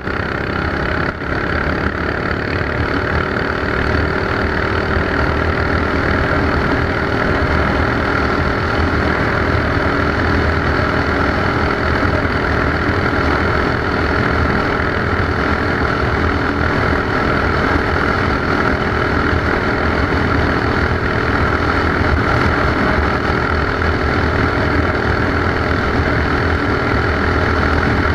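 Mini bike engine running under way, building up over the first few seconds and then holding a steady drone.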